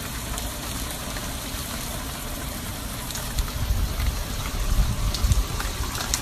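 Steady hiss of water, with a few faint ticks and low rumbling swells in the second half.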